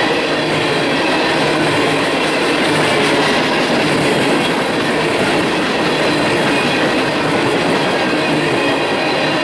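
Empty coal train cars rolling past close by: a loud, steady rumble and clatter of steel wheels on the rails.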